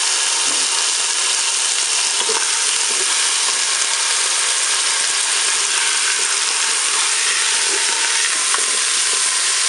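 Turkey roast and onion frying in hot olive oil in a Cookeo multicooker bowl on its browning setting: steady, loud sizzling, with a few faint ticks.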